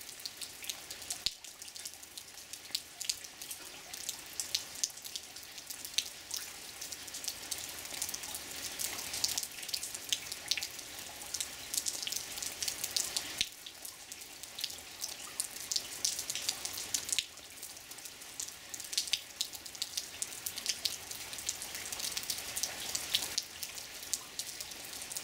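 Rain falling steadily, a dense patter of many sharp drop ticks over a continuous hiss.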